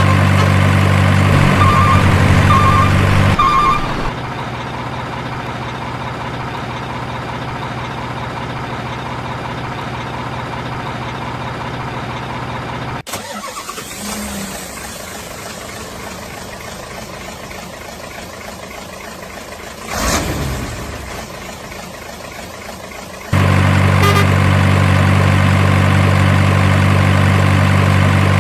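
Truck engine idling steadily, loud at first and again near the end. In between it runs quieter, with sudden changes, and there is one short rev with falling pitch partway through. Three short high beeps sound a couple of seconds in.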